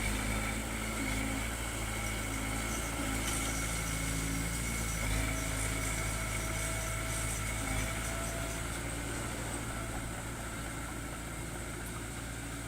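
Diesel engine of earthmoving machinery running steadily at low revs, easing off slightly over the last few seconds.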